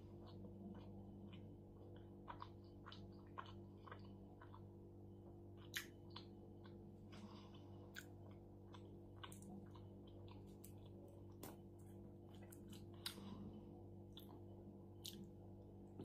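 Faint close-up chewing of a juicy shawarma, with scattered soft wet mouth clicks, over a steady low hum.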